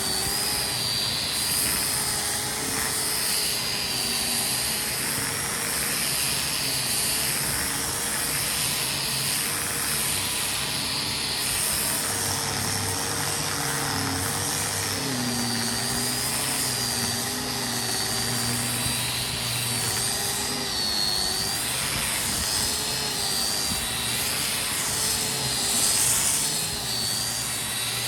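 A motor running steadily throughout, its pitch wavering slightly up and down.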